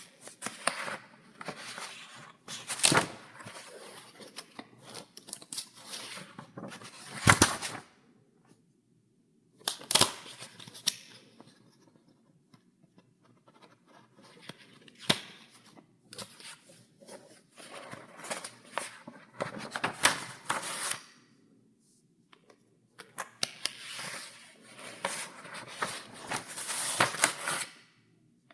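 Paper pages of a file being turned one after another: rustling sweeps with sharp snaps as sheets flip over. There are two short pauses, about a third of the way in and near the end.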